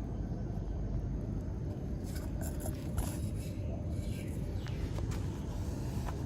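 Outdoor field noise: a steady low rumble with a few faint clicks about two to three seconds in.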